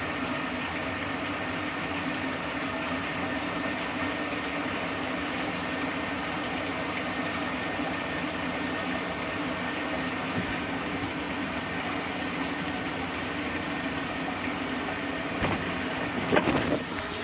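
Old Maytag apartment-size washer running steadily, a motor hum with several held tones. A few knocks and a brief clatter come near the end.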